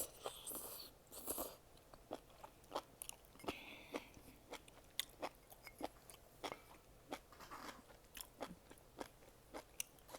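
Close-miked eating sounds: a person chewing noodles, with many irregular sharp wet mouth clicks and a few short slurping smears.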